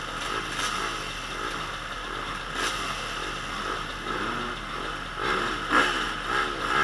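Several motocross bike engines revving up and down on the track, their pitch rising and falling over and over, louder about five seconds in.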